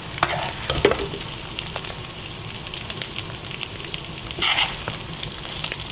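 Small fish sizzling steadily in oil in a frying pan, with a few sharp clicks of a metal spoon in the first second and a louder scrape about four and a half seconds in as the fish are stirred and scooped out.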